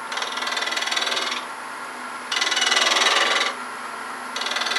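Sandpaper held against a wooden piece spinning on a wood lathe, a scratchy hiss in three passes with short pauses between, blending the turned surface smooth. The lathe runs with a faint steady hum underneath.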